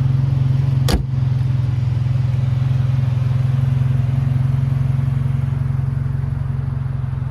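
2014 Cadillac ATS engine running steadily at a constant speed, with one sharp click about a second in.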